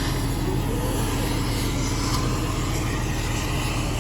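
Heavy machinery running with a steady, constant low drone.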